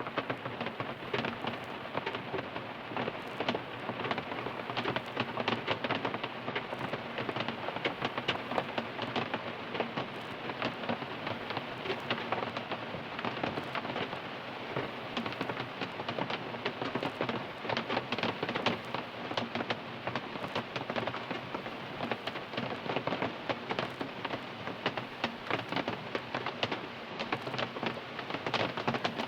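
Steady rain drumming on a car's roof and windows, heard from inside the cabin: a dense, muffled patter of countless drops.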